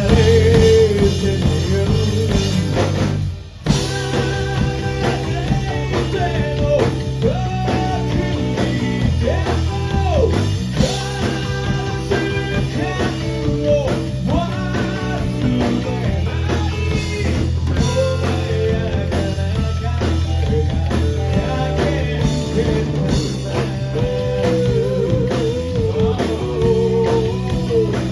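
Rock band playing live: guitar, bass and drum kit under a sung vocal line. The band cuts out suddenly for a moment about three and a half seconds in, then comes back in.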